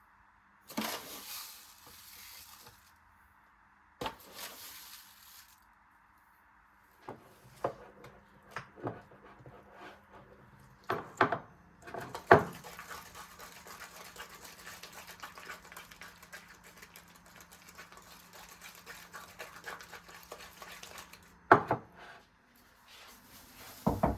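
Kitchen cooking sounds: metal utensils and cookware knocking and clinking, with stirring in a pan. From about halfway a steady hiss with a low hum runs under the clatter.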